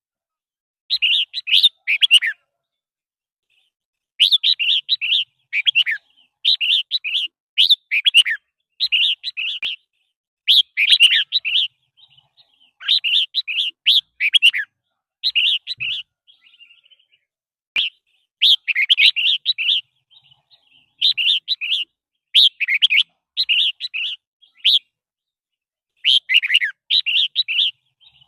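Red-whiskered bulbul singing: short, chirpy song phrases of one to two seconds each, repeated over and over with brief pauses between them.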